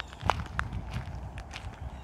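Footsteps walking along a trail: a few irregular steps and scuffs with sharp clicks, the loudest just after the start.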